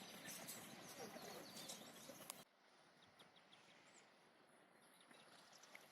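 Faint birds chirping over a soft outdoor background hiss. About two and a half seconds in the background drops away abruptly, leaving only a few faint chirps.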